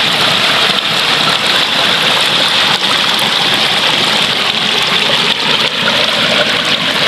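Steady rushing noise with a constant bright high-pitched hiss running through it, unchanging and without distinct events.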